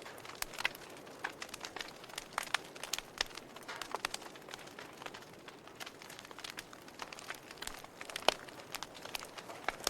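Fire burning in a fireplace, crackling with irregular sharp pops over a soft hiss; one louder pop about eight seconds in.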